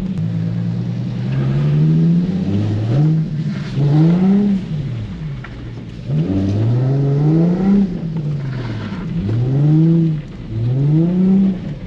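Nissan 350z's 3.5-litre V6 revving up and down over and over while being drifted on a slick wet surface. The engine note climbs and drops about six or seven times, after a brief steady note at the start.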